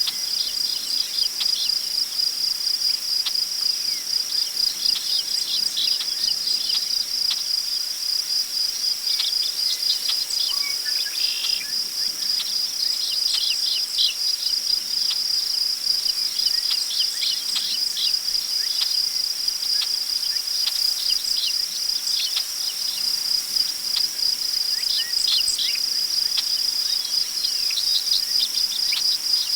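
Crickets trilling steadily in one unbroken, pulsing chorus, with scattered short bird chirps over it, busiest through the middle.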